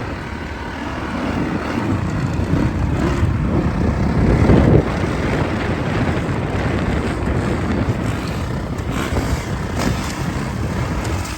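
Dirt bike engines running on the track, loudest around four to five seconds in.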